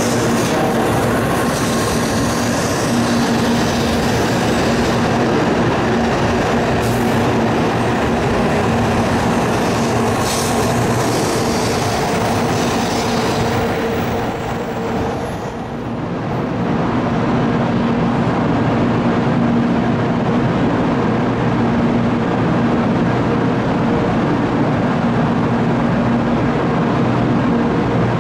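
N700-series Shinkansen train running along the platform, a steady rumble and hiss of wheels and motors with a faint constant hum. About halfway through, the level dips briefly; after that the sound is duller, with less hiss, but the rumble goes on just as steadily.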